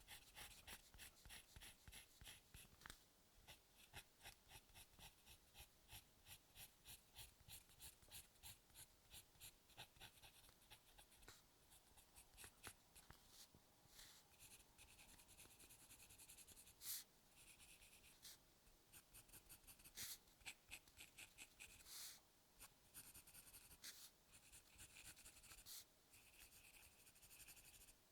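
Sketching on paper, close up: a run of quick, short scratchy strokes, about three a second, giving way to longer strokes with a few louder ones in the second half.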